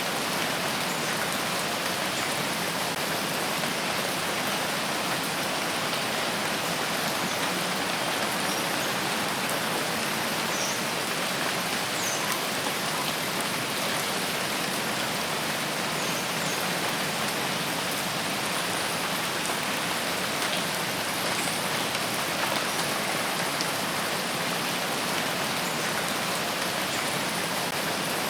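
Steady rainfall on a forest, an even hiss of rain with faint scattered drop ticks.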